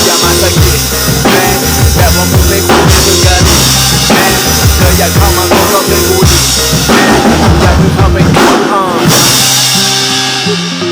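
Drum kit played live over a hip-hop backing track, with steady bass drum and snare hits. The drumming stops about nine seconds in, leaving a fading ringing and the backing track's bass and melody playing on.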